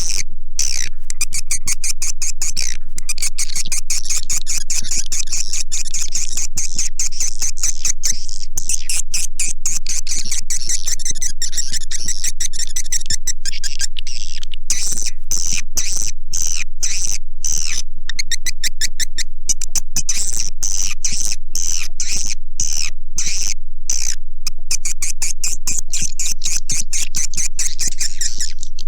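Recorded swiftlet calling sound (edible-nest swiftlets): a dense, rapid stream of high twittering chirps, with a few brief gaps. A steady low hum runs underneath.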